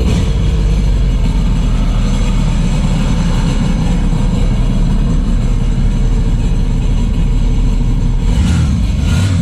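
Sea-Doo Spark's Rotax 900 ACE three-cylinder engine running through its stock exhaust: a steady, pretty noisy drone.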